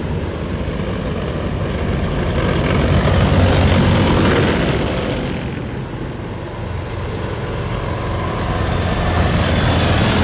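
Heavy military vehicles driving past in a column, their engines giving a loud, low rumble. The sound swells as one vehicle passes, eases a little past the middle, then builds again as the next one comes by near the end.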